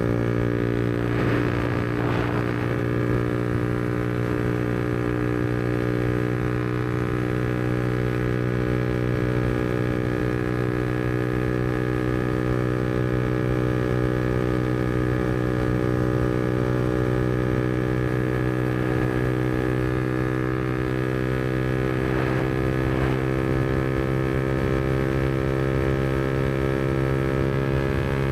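Yamaha MT-125's single-cylinder four-stroke engine, through a Black Widow aftermarket exhaust, cruising at steady revs with its pitch holding almost level. Two brief rushes of noise come through, about two seconds in and again some twenty seconds later.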